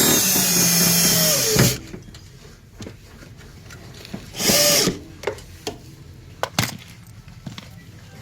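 Hand-held power tool running in two bursts, the first about a second and a half long and the second about half a second long, coming a few seconds later; each slows as it stops. Light clicks and knocks of parts being handled come in between.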